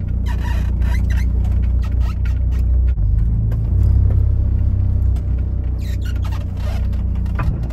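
VW GTI's engine, fitted with a K04 hybrid turbo, droning low and steady under way at low speed, heard from inside the cabin; it grows a little louder about three seconds in.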